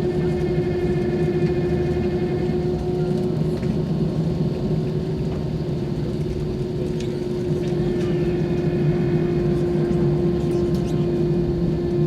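Airbus A320's jet engines running steadily at low power, a constant hum with a steady low tone over a broad rumble, with no spool-up.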